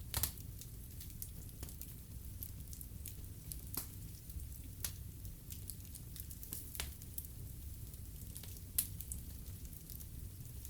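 Wood fire burning in a fireplace, crackling: irregular sharp pops and snaps over a low steady rumble of flame, with the loudest pops just after the start and a little before the end.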